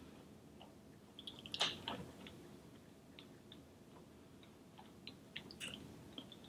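Faint chewing with the mouth closed: scattered soft clicks and smacks, a little louder for a moment about a second and a half in.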